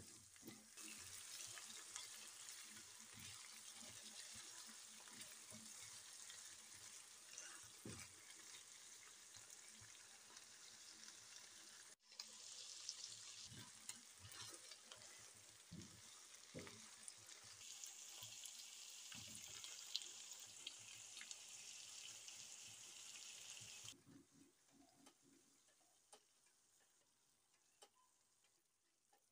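Chicken pieces sizzling in hot oil in a wok, with the scrapes and knocks of a spatula stirring them. The sizzle breaks off for a moment midway, then stops suddenly near the end and leaves near silence.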